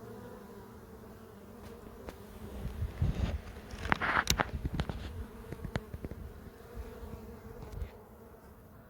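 Honeybees buzzing steadily around an opened hive in a tree cavity. A run of sharp knocks and a brief rustle comes in the middle of the buzzing.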